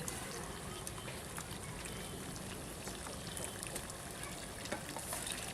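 Water trickling and pouring steadily, with a few small clicks.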